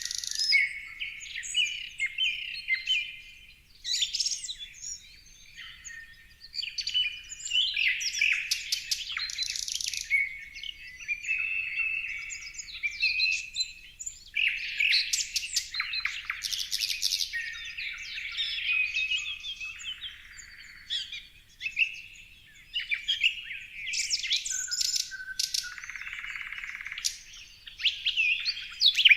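Several songbirds singing and chirping together, with overlapping whistled phrases, rapid trills and sharp chip notes, one after another with short lulls.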